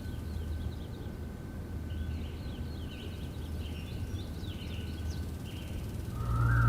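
Outdoor ambience: a steady low rumble with small birds chirping over it. About six seconds in, music with a whistled melody and a heavy beat comes in.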